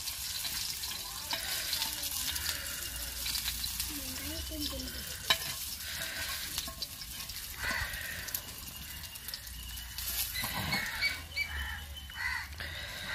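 Squid vadas sizzling as they fry in hot oil in a pan, a steady hiss, with occasional clicks and scrapes of a metal spatula against the pan as the vadas are lifted out.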